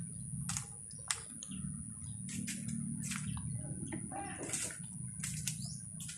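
Water splashing and dripping in short, irregular spurts while a scooter is being washed, over a steady low hum.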